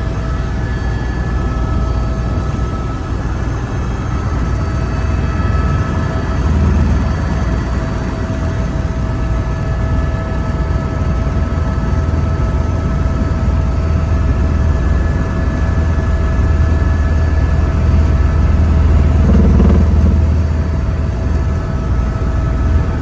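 Helicopter in flight: steady, loud engine and rotor noise with a constant high whine over it.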